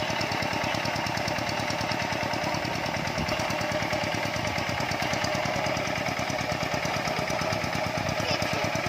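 Tractor engine running steadily while plowing a rice field, with a rapid, even chugging beat.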